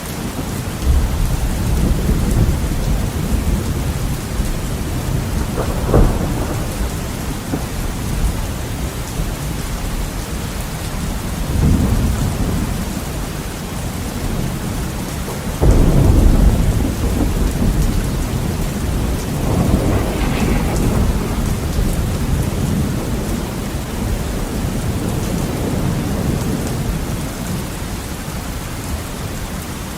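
Heavy rain on a window, a steady hiss, with rolling thunder rumbling through it. A sharp crack comes about six seconds in, and the loudest clap breaks about halfway through, followed by further long rumbles.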